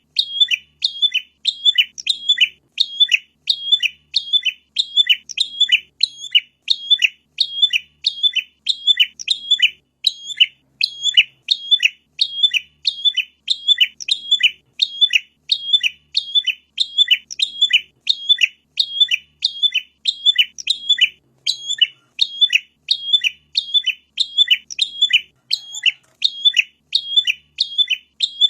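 Prinia (prenjak) calling a sharp, high chirp over and over at an even pace, about two notes a second, without a break.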